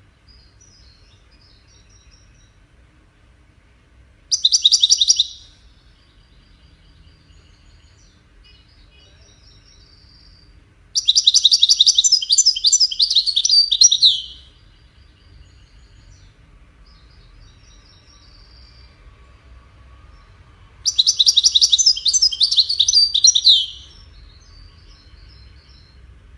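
European goldfinch song in the style Moroccan fanciers call widani: three loud bursts of fast, high twittering and trilling, the first short and the next two about three seconds long, with softer twitters between them.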